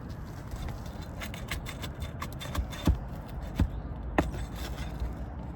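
Roofing nail being pried out from under an asphalt shingle: scraping and small metallic clicks, with three sharper knocks through the middle. The nail head pulls through the shingle.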